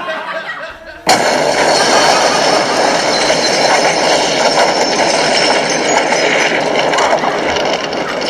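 A toilet exploding: a sudden loud blast about a second in, followed by a long, steady rush of noise.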